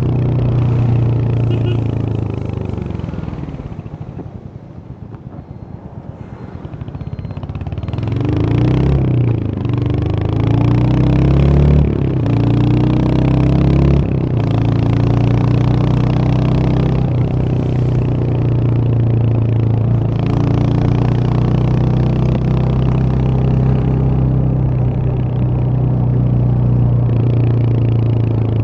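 Royal Enfield Hunter 350's single-cylinder engine, heard from the rider's seat. It eases off to a quieter low stretch, then pulls away, the revs climbing in a few steps as it shifts up, and it settles into a steady cruise for the second half.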